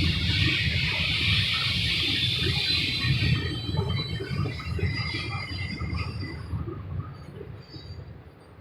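Long freight train's cars rolling past on the rails: a low rumble with wheel clatter and a high hiss. About three seconds in the hiss drops away and the rumble fades off as the last cars go by.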